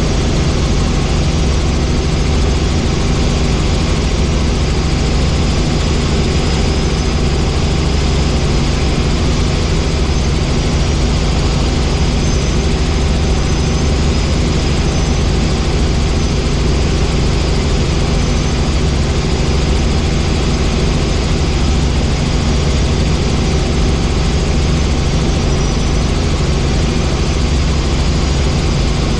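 Helicopter in flight: steady engine and rotor noise heard from inside the cabin.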